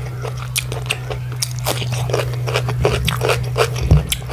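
Close-miked chewing with many quick, crisp crunches, over a steady low hum. A soft bump about four seconds in.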